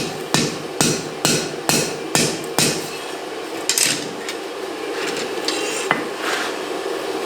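Blacksmith's hammer striking steel on an anvil, about two blows a second, stopping about two and a half seconds in; after that only a few scattered lighter knocks, over a steady hum.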